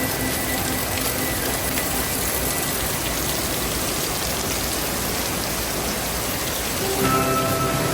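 Steady rush of water from a waterfall in a gorge. Background music fades out in the first couple of seconds and comes back in near the end.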